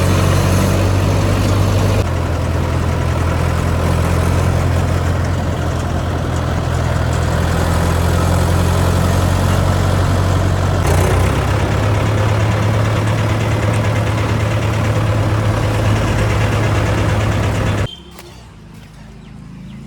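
Engine running steadily with a low hum, then cutting off suddenly near the end.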